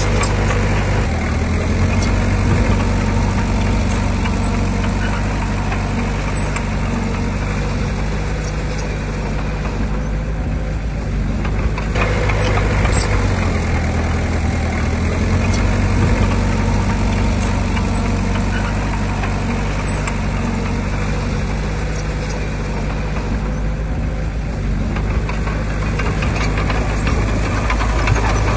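Heavy diesel earthmoving machinery running, its low engine note shifting a few times as the load changes, with a few short knocks.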